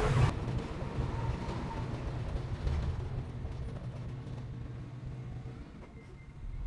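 Diesel engine of heavy earthmoving machinery running with a steady low rumble that slowly fades. A louder burst of machine noise cuts off just after the start.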